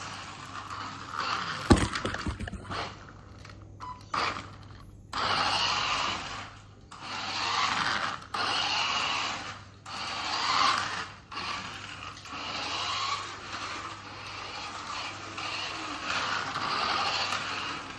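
Rebuilt Tyco Outlaw RC car on a test run, its small electric motor and drivetrain running in short stop-start bursts of throttle. There is a sharp knock about two seconds in.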